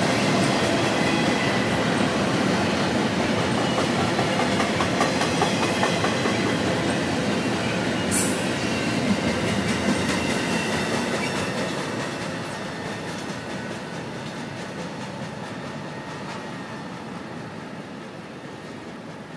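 Double-stack intermodal freight train's well cars rolling past close by, wheels clattering over the rail joints, with a short high screech about eight seconds in. The sound fades steadily once the last car has gone by and the train moves away.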